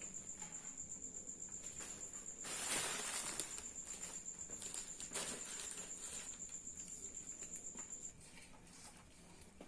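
An insect trilling, a steady high-pitched pulsing note that stops about eight seconds in. A short rustling noise comes about three seconds in, and a single click comes near five seconds.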